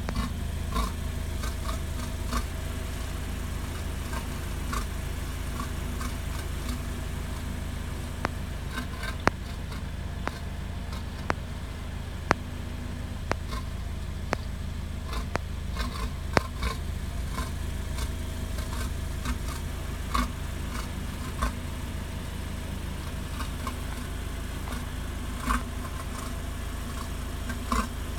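Lexus RX idling at the exhaust with a steady low hum, broken by irregular sharp ticks and clicks, thickest in the middle stretch. The owner suspects an abnormal muffler noise and wonders whether something is clogged.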